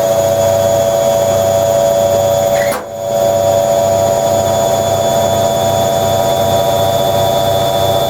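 Hoover Logic 1300 washing machine spinning at 800 RPM: a steady motor whine with drum hum. It drops out briefly about three seconds in, then carries on.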